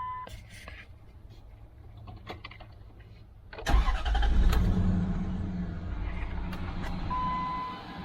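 A 2003 Dodge Durango's engine starting about three and a half seconds in, catching at once and settling into a steady idle on its freshly changed oil. A steady beep tone stops just after the start and sounds again briefly near the end.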